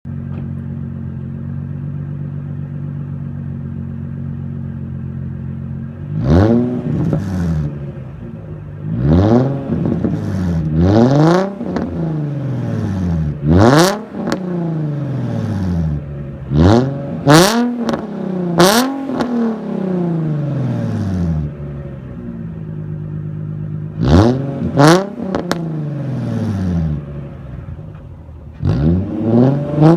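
Nissan 350Z's 3.5-litre VQ35HR V6 through a 3-inch straight pipe from the Y-back: idling steadily for about six seconds, then revved in about ten short, sharp blips, each falling back to idle.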